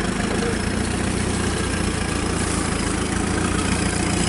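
A vehicle engine idling steadily, a constant low running note with no revving.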